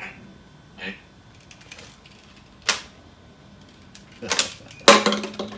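Several separate sharp clicks and clatters of small hard objects, the loudest in a cluster near the end.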